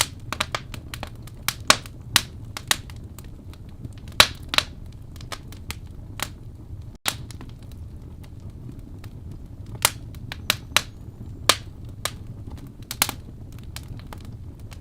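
Wood fire crackling in a fireplace: irregular sharp pops and snaps, a few of them loud, over a low steady rumble of the burning.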